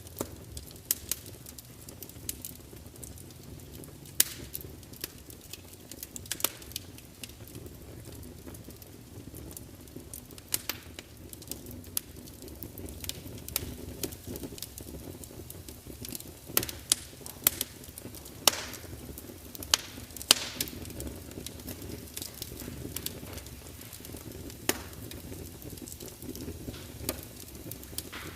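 Wood fire burning in a large fireplace: a steady low rumble of flames with irregular sharp crackles and pops from the logs, a cluster of louder pops a little past the middle.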